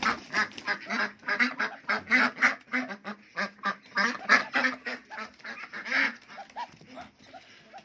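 Domestic ducks quacking, a rapid run of short calls several a second that thins out and fades after about six seconds.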